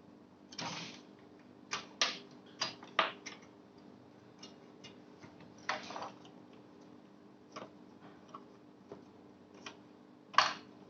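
Irregular clicks, taps and short scrapes of hands working on a small desktop PC's case and parts, with the sharpest click near the end, over a faint steady hum.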